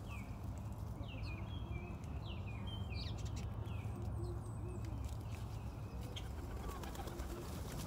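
Small birds chirping in short, quick high notes, thickest in the first few seconds and sparser after, over a steady low hum.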